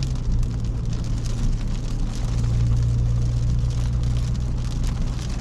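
Audi S5 with a catless downpipe and a resonator delete, its exhaust droning steadily at cruise as heard inside the cabin, over an even hiss of tyres and rain on the wet road.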